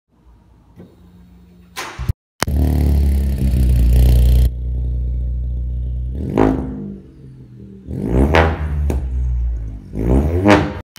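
Ford Fiesta 1.0 EcoBoost three-cylinder turbo engine through a decat Milltek race exhaust, revved hard and then blipped several times, rising and falling. Sharp cracks and pops come out of the exhaust as the revs drop, from its crackle map.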